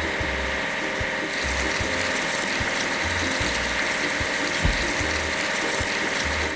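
Background music with a low repeating bass pattern, layered with a steady hiss and rapid mechanical clicking.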